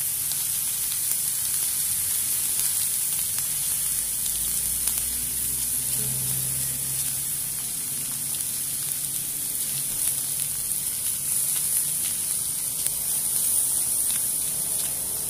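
Green capsicum and onion rings sizzling in a little oil in a wok over a lowered flame: a steady frying hiss.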